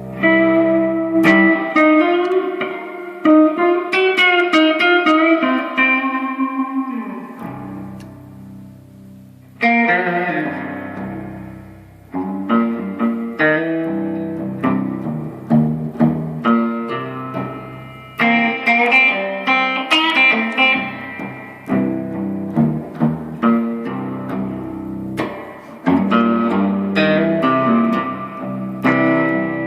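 Guitar playing: plucked notes and chords that ring and decay, with a lull about seven seconds in where the notes die away before the playing picks up again about ten seconds in.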